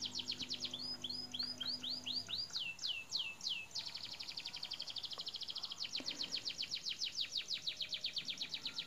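A songbird singing a long, fast trill of repeated high chirps that each sweep downward. About a second in it changes to a few slower, drawn-out descending whistles, then goes back to a very rapid trill until it stops near the end.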